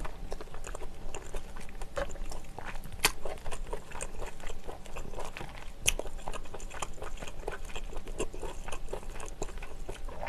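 Close-miked wet chewing and mouth sounds of someone eating glass-noodle seafood pasta in rosé sauce, with two sharp clicks standing out about three and six seconds in.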